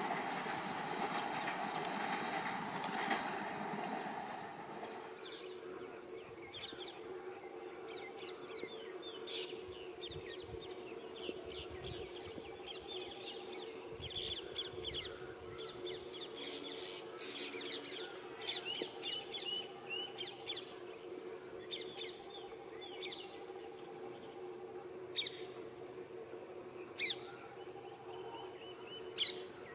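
A train rolls away over the rails for the first few seconds, its rumble dropping off about four seconds in. Then birds chirp and call repeatedly over a steady low hum, with a few louder single calls near the end.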